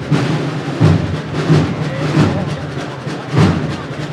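A processional band's drums beating a slow march, with deep bass-drum strokes about every 0.7 seconds over a busy percussion texture and crowd noise.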